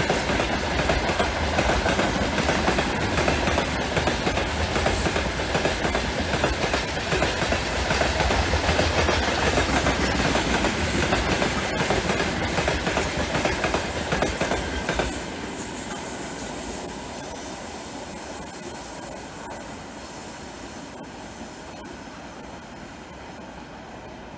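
Heavy freight train running past at speed, its wagon wheels clacking over the rail joints. About fifteen seconds in, the noise drops sharply, then fades steadily as the train moves away.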